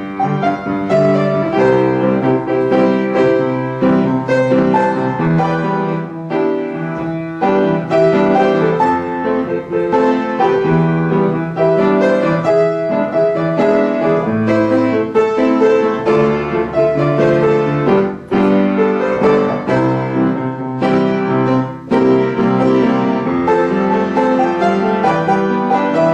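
Solo piano playing a pop song arrangement, with melody, full chords and a moving bass line.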